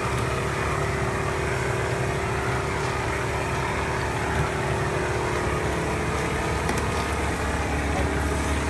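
Plastering machine running: a steady motor drone with a constant hum.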